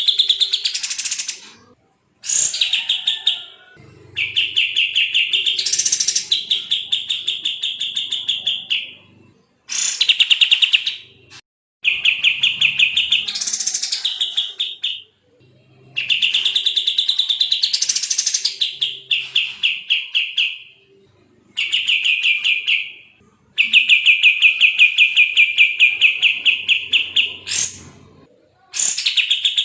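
A kapas tembak songbird singing in a run of very fast, rapid-fire trills. There are about eight phrases, each a second to five seconds long, separated by short pauses. This is the dense, non-stop 'gacor' song used as masteran for training other songbirds.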